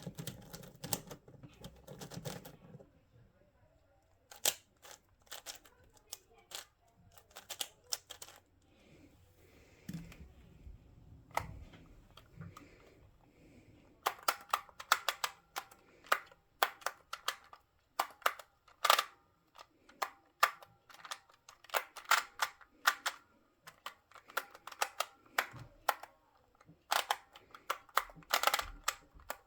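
Plastic puzzle cube being turned by hand, its layers clicking and clacking as they snap into place. The turns come in scattered groups at first, then turn into a rapid, dense run of clicks about halfway through.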